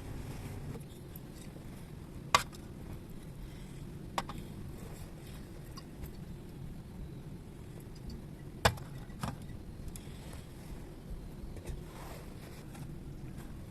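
Four short, sharp clicks or knocks over a low, steady background rumble: one about two seconds in, one about four seconds in, and two close together about nine seconds in.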